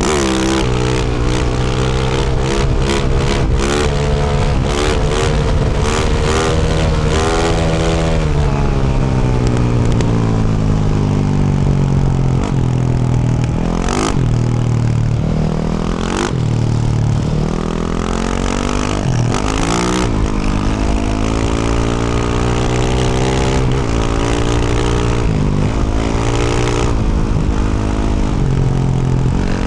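2024 Yamaha YZ450F's single-cylinder four-stroke engine through a Yoshimura RS-12 exhaust, revving up and dropping back again and again as the bike is ridden, with sharp throttle chops about 14 and 16 seconds in.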